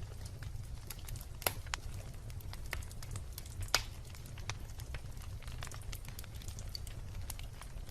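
Wood bonfire crackling, with irregular sharp pops of burning wood throughout; two louder pops come about a second and a half in and just under four seconds in, over a steady low rumble.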